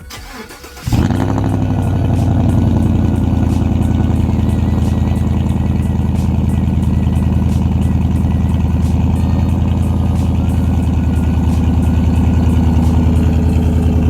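Chevrolet Silverado engine cold-starting through a Carven aftermarket exhaust: a short crank, then it fires about a second in with a quick flare and settles into a loud, steady idle.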